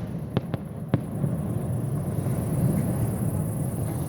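Fireworks going off: three sharp bangs in the first second, then a steady low rumble.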